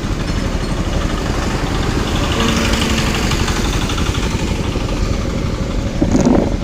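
Road traffic passing: vehicle engines running steadily, with a brief steady tone about two and a half seconds in and a louder vehicle passing near the end.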